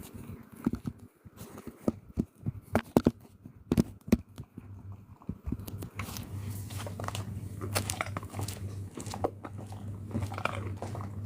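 An animal chewing and crunching food: an irregular run of crisp crunches and clicks. A low steady hum comes in about six seconds in.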